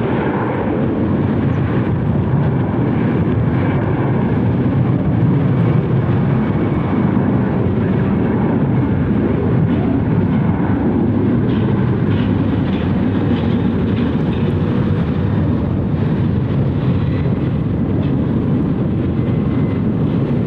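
Boeing 757-200 jet airliner's engines at high thrust for takeoff, a steady loud rumble.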